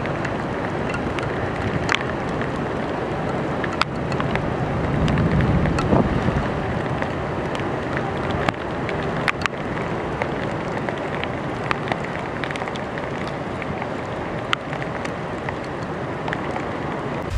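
Steady noise of wind and surf with scattered sharp clicks, swelling briefly to a low rumble about five seconds in.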